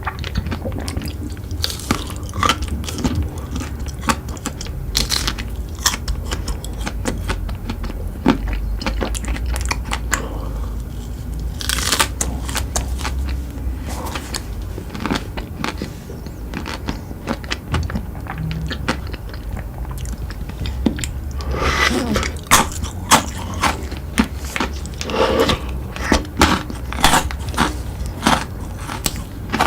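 A person biting into and chewing crunchy chocolate sweets: irregular crunches and chewing clicks, coming thicker and louder in the last third.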